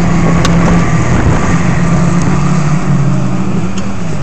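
Autograss racing car engine running under load, its pitch dropping about three seconds in and again near the end.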